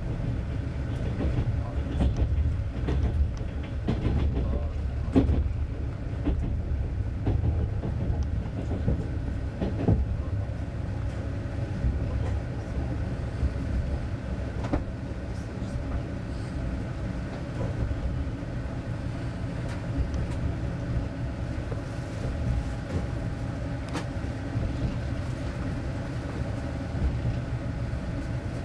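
A passenger train coach running at speed, heard from inside the carriage: a steady low rumble of wheels on rail, with occasional short clicks and knocks from the track.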